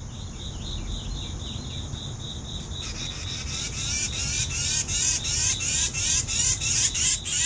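A steady, high pulsing trill from insects. From about three seconds in, a fast, growing run of harsh, high chirps at about four or five a second: a chickadee scolding in alarm at a snake.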